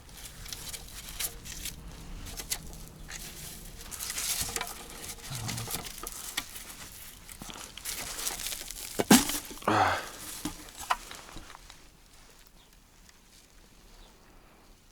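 Rummaging through old junk in an attic: rustling and crinkling with scattered small knocks and clatter as objects are handled. One sharp, loud knock comes about nine seconds in, followed by a short scrape, and the handling dies down over the last few seconds.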